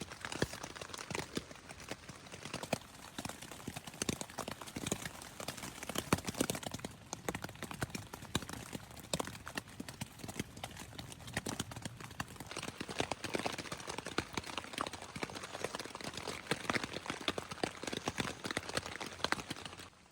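Rain pattering: a dense, irregular stream of small taps of drops hitting a surface.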